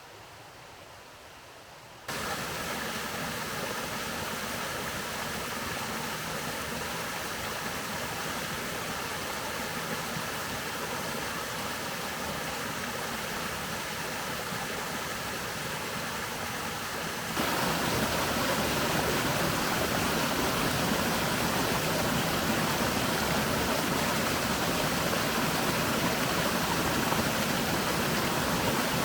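Steady rain falling, an even hiss of water with no distinct drops. It starts suddenly about two seconds in and turns abruptly louder about two-thirds of the way through.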